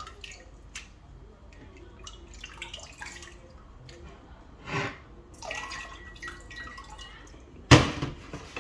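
Water dripping and splashing lightly, with small wet clicks, as raw chicken pieces are washed and handled. A single loud knock comes near the end.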